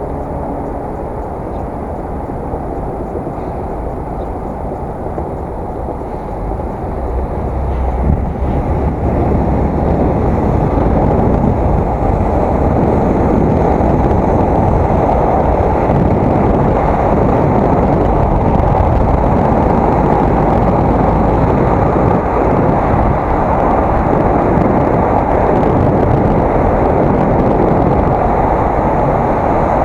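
Wind rushing over an action camera's microphone while cycling: a steady roar that grows louder about eight seconds in, as the bike picks up speed.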